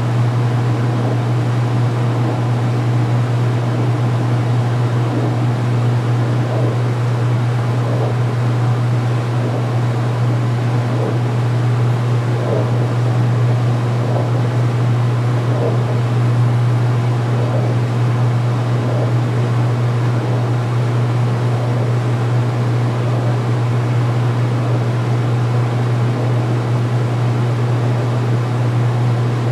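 2016 Speed Queen belt-drive washing machine in its final spin, the tub spinning at speed with a loud, steady hum.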